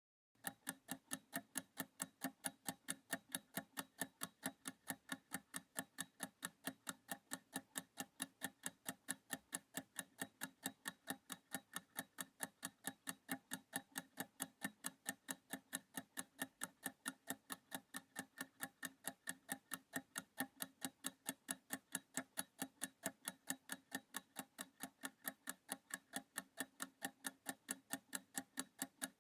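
Clock-ticking countdown timer sound effect, even quiet ticks at about four a second, marking the 30 seconds allowed for a reading quiz.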